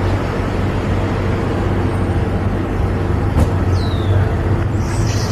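Honda Fury's V-twin engine running steadily at cruising speed, with road and wind noise.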